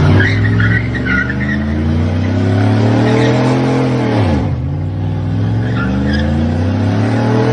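Truck engine held at high revs while its tires spin and squeal in a burnout. The revs drop sharply about four and a half seconds in, then climb back up.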